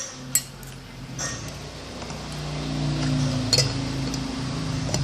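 Cutlery clinking against a plate while eating, a few separate sharp clinks. A low steady hum runs underneath.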